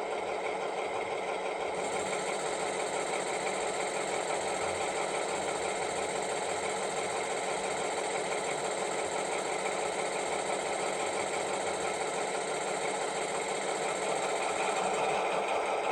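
Diesel engine sound from the speaker of an ESU H0 model of a DR class 110 diesel locomotive, running steadily. A thin high whine joins about two seconds in, and the sound gets a little louder near the end.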